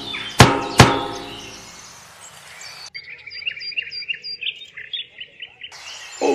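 Two sharp, ringing knocks about a third of a second apart near the start, fading away. Then a few seconds of small birds chirping rapidly, which start and stop abruptly.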